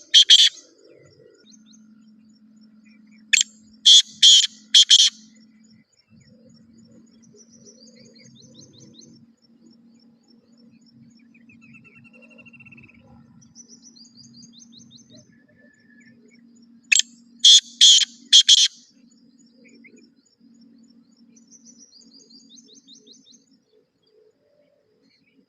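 Black francolin (black partridge) calling: two loud grating bursts, each a quick run of about five harsh notes, about 3 s and 17 s in. Smaller birds chirp and twitter faintly between the calls over a low steady hum.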